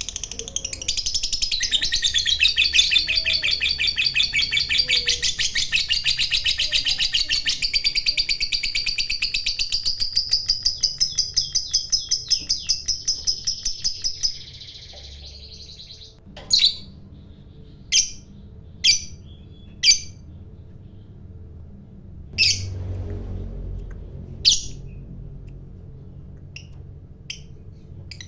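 Lovebird giving its long 'ngekek' call: a shrill, rapid chattering trill of repeated notes that runs for about fourteen seconds, its beats spacing out toward the end before it stops. After a short pause come about six single sharp chirps, spaced a second or two apart.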